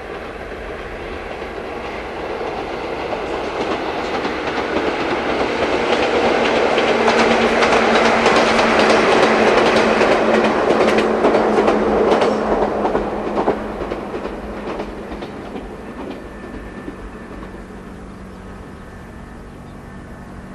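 Two-car Ichibata Electric Railway train passing close by, its wheels clattering over the rail joints. It grows louder, is loudest about halfway through, then fades away.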